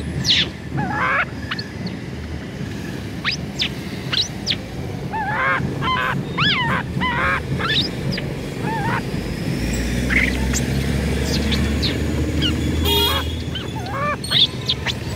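Birds calling: scattered short chirps and squawks, several overlapping, with a low rumble running underneath for a few seconds past the middle.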